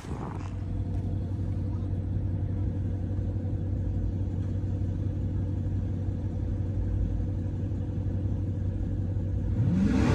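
Dodge Scat Pack's 392 HEMI V8 running steadily with a deep, even rumble. Music comes in near the end.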